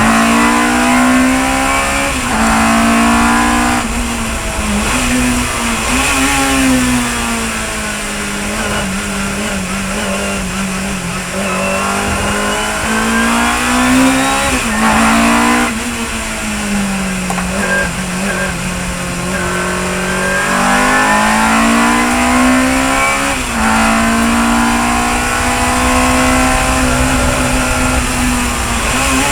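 Chevron B19 sports racing car engine at full racing revs, pitch climbing through each gear and dropping sharply at every upshift, with a lower, slower stretch about midway before it winds up through the gears again.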